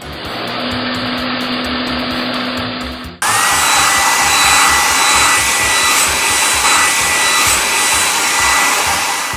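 Car-wash machine sound effects: a steady rushing noise, then about three seconds in an abrupt switch to a louder hissing air blower with a steady high whine, like a car-wash dryer. A soft music beat runs underneath.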